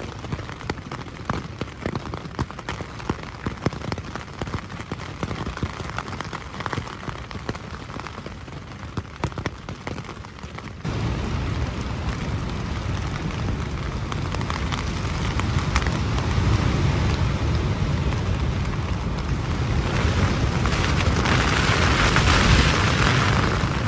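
Rain falling on a tent, many separate drops hitting at first. About eleven seconds in it turns abruptly louder and denser, with more low-end weight.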